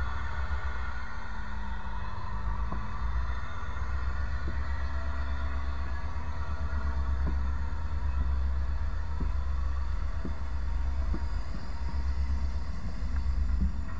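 Railcars rolling slowly over a camera between the rails: a steady deep rumble with a high metallic ringing, and a few sharp clicks now and then.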